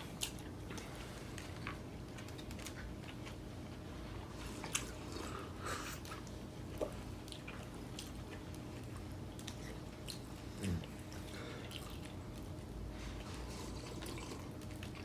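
People chewing and biting food, with scattered small clicks and moist mouth sounds over a low steady room hum.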